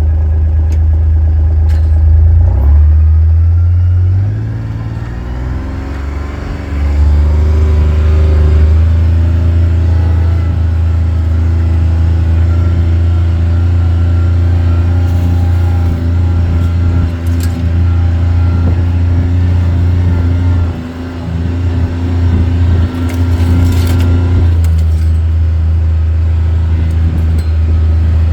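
A vehicle engine running as it drives. A low steady hum climbs in pitch a few seconds in as it speeds up, then holds steady with a few knocks and rattles.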